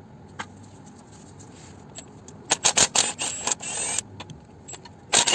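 Impact wrench undoing bolts in short bursts of rapid hammering, starting about halfway through and ending in a longer run. One more brief burst comes near the end.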